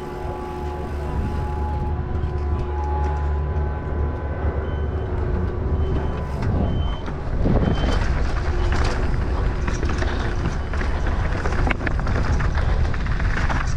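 Race start timer beeping a countdown: a few short high beeps about a second apart over a steady low hum. Then the mountain bike rolls out, with rough tyre-on-dirt and wind noise full of clicks and rattles.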